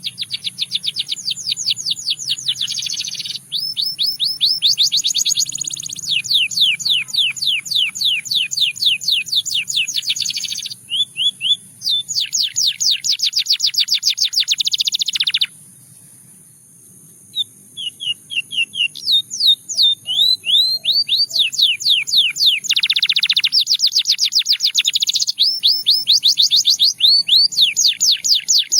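Domestic canary singing: long runs of rapidly repeated high trill notes, breaking off for about two seconds a little past halfway, then resuming.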